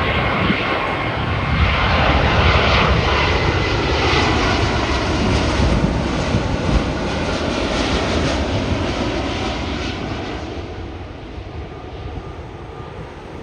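Large jet airliner passing close on its landing approach: a loud rush of jet engine noise with a faint high whine, building over the first few seconds and fading away toward the end.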